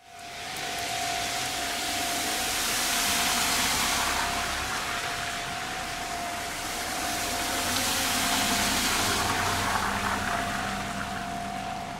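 Heavy rain pouring down, a dense hiss that swells and eases twice. Through it a railway level-crossing alarm sounds with a steady ringing tone.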